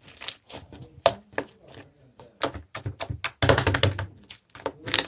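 Black sorbet-type slime being pressed and squished by hand, giving irregular sharp clicks and crackling pops, thickest about three and a half seconds in.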